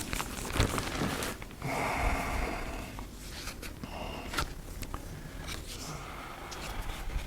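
Soft rustling of Bible pages being turned to a passage, with a few light clicks and breaths close to the microphone.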